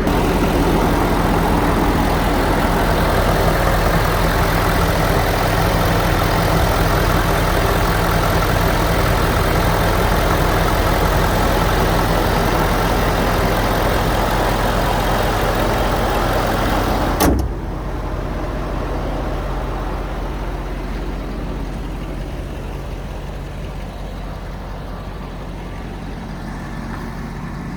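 Ford F-450 lube truck's engine idling steadily. About 17 seconds in there is a single sharp knock, and after it the idle sounds duller and a little quieter.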